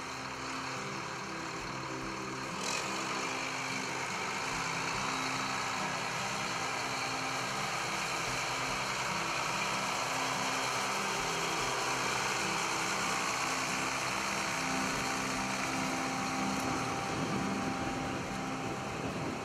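John Deere 7710 tractor's six-cylinder diesel engine running steadily, picking up a little about three seconds in.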